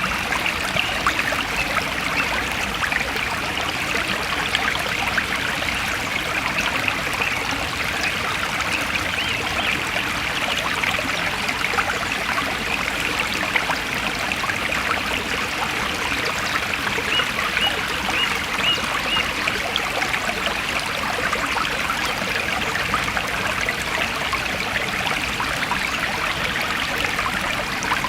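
Forest stream flowing steadily, a continuous even trickle and splash of running water.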